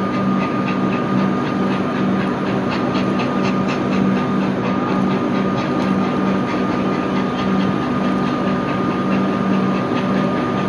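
Steam-hauled heritage train running, its locomotives' exhaust giving a quick, even run of beats over a steady hum and hiss.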